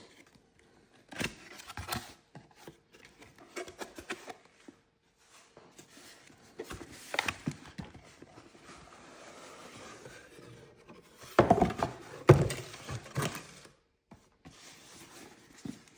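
A shower head's cardboard box and packaging being opened and handled: scattered rustling, rubbing and light knocks, with a stretch of steady rustling in the middle and two louder thumps a little past halfway.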